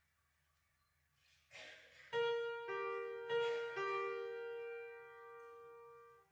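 Piano: after a soft rustle, four notes or chords are struck about half a second apart and held, fading slowly, then cut off suddenly.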